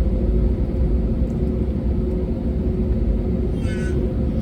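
Steady low rumble inside the cabin of an Airbus A320neo, its Pratt & Whitney geared turbofans running, with faint steady hums. A brief high-pitched sound cuts in near the end.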